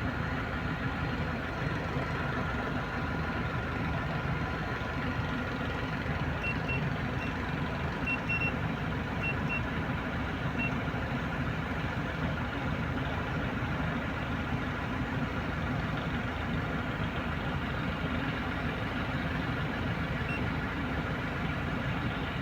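Toyota Innova engine idling steadily, with a few short high beeps over the running engine near the middle and once more near the end.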